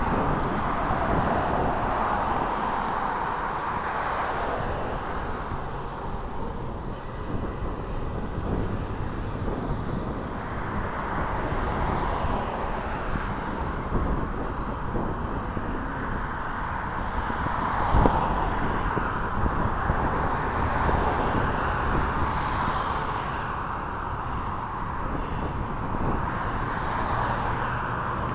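Wind rumbling on the microphone, with a hiss of road traffic that swells and fades as vehicles pass. A single sharp knock comes about two thirds of the way through.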